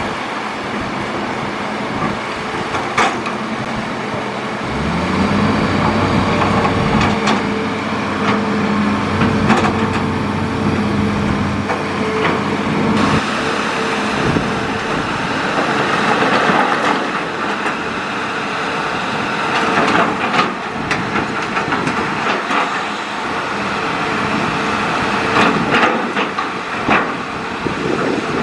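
Hitachi Zaxis excavator's diesel engine and hydraulics working. The engine rises in revs about five seconds in, holds under load, and falls back about halfway through, with scattered knocks and clatter throughout.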